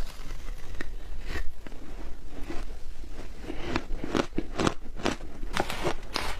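Close-up biting and chewing of crunchy shaved ice: a quick, irregular run of crisp crunches, thicker and louder in the second half.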